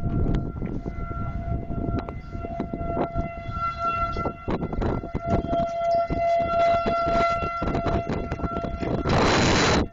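Outdoor tornado warning siren sounding a held tone that swells and fades as it sweeps around, over a heavy low rumble of wind on the microphone. A loud burst of hissing noise comes about nine seconds in.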